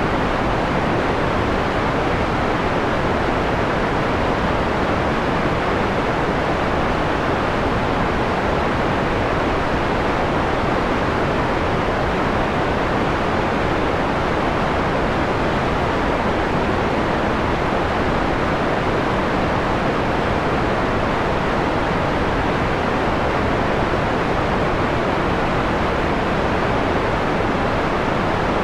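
Steady synthetic white noise, filtered to a mellow, dull tone with most of the treble taken away.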